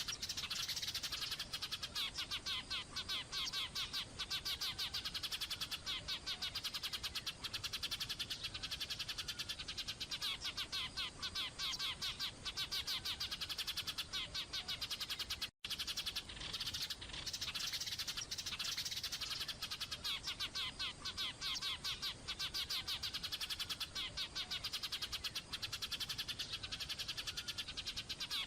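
Small songbirds chirping and trilling in a fast, continuous stream of high notes, with a brief break about halfway through.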